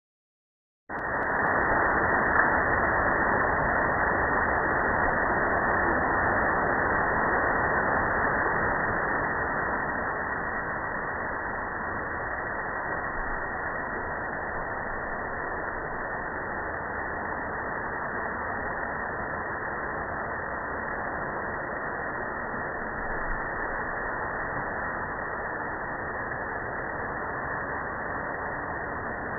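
Steady rush of a waterfall's falling water, starting about a second in and easing slightly after about ten seconds.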